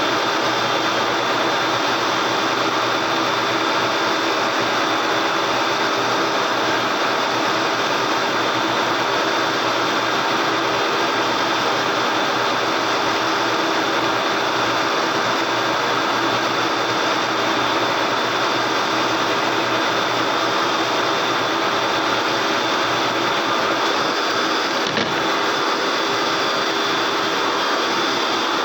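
A motorised body-shop tool runs steadily without a break, a constant whirring hiss with a few faint steady tones in it.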